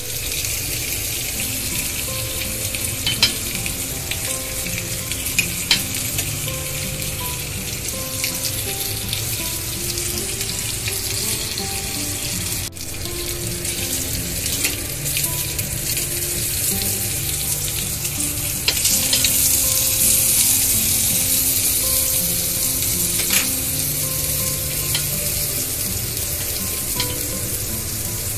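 Sausages sizzling in hot grill pans on a gas stove, with scattered pops of spitting fat; the sizzle grows louder for a few seconds about two-thirds of the way in. A quiet background melody plays underneath.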